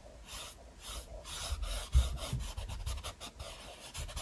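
Paintbrush loaded with acrylic paint rubbing across a canvas in repeated scrubbing strokes. The strokes turn to quick, short dabs in the second half, with a single low bump about two seconds in.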